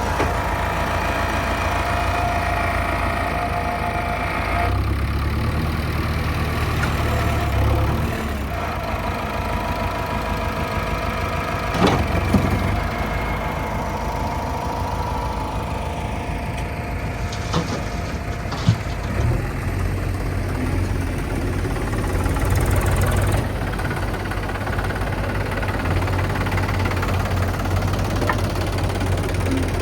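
Diesel engine of heavy farm or earth-moving machinery running steadily, rising in load for a few seconds about five seconds in and again later. There are a few sharp clunks, around twelve seconds in and again near nineteen seconds.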